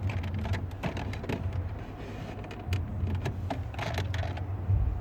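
Scattered clicks, taps and light knocks from hand tools and plastic dashboard trim being worked on, over a steady low hum.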